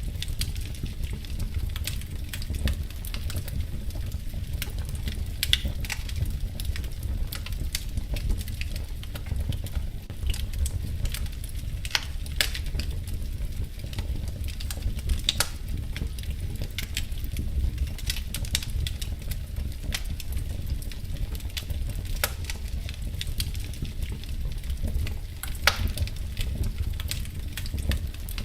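Crackling wood fire in a fireplace: scattered sharp pops and snaps over a steady low rumble.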